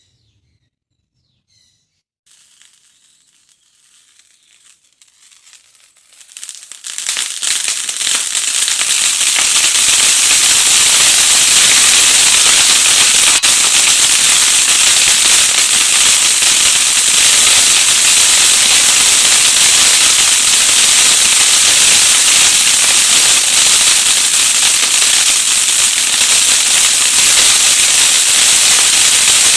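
Kuil crackling fountain firework: near silence, then a faint hiss from about two seconds in. About six seconds in the fountain catches, and within a few seconds it builds to a loud, steady, dense crackle over a hiss that keeps going without a break.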